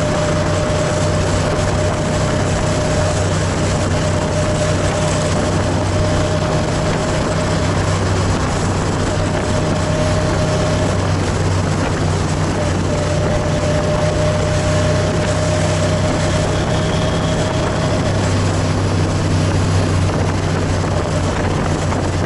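Motorcycle engine running at a steady cruising speed, with heavy wind noise buffeting the microphone while riding.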